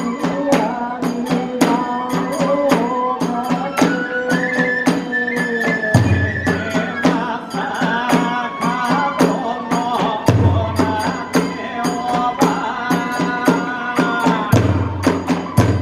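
Kagura festival music played live: a bamboo flute melody over fast, steady clashing of small hand cymbals, with a deep drum beating in about six seconds in, again about ten seconds in, and near the end.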